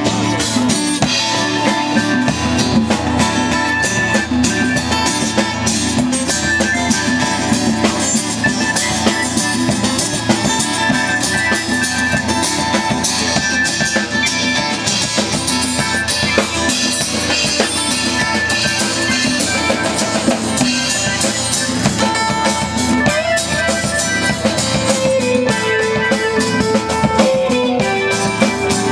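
Live band playing an instrumental rock jam: strummed guitars over a steady drum kit beat, with a lead guitar line stepping down in pitch near the end.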